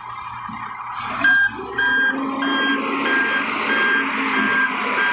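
Reversing alarm on a heavy vehicle, beeping steadily at about one and a half beeps a second from about a second in, over the noise of its running diesel engine.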